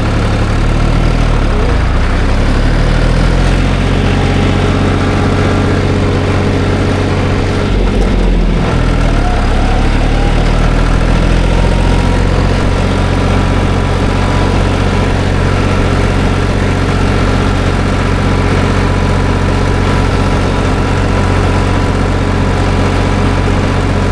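Farm tractor engine running steadily, with the engine speed dipping and shifting briefly about eight seconds in.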